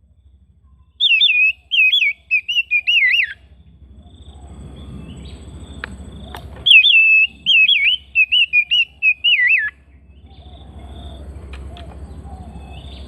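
Oriental magpie-robin singing two loud warbling phrases, each a few seconds long, over a low steady hum.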